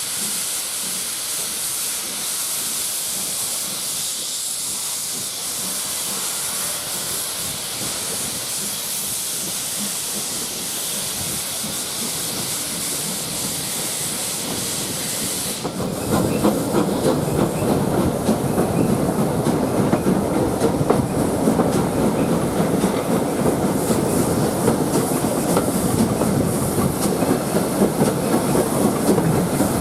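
Steam hissing steadily from GWR Prairie tank locomotive 5526. About halfway through it gives way abruptly to the louder rumble and clickety-clack of the train running on the rails.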